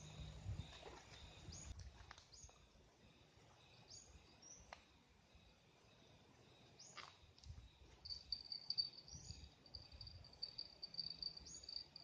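Faint natural ambience with a few quick falling bird calls; from about eight seconds in, an insect, likely a cricket, starts a steady high-pitched pulsing trill.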